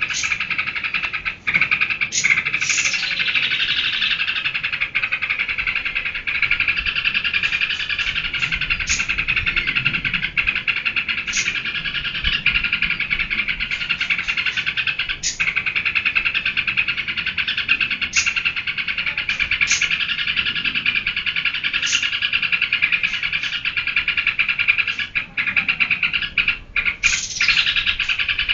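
Yellow-vented bulbul (trucukan) singing a nonstop, rapid chattering song, with short sharp high notes breaking in every second or so.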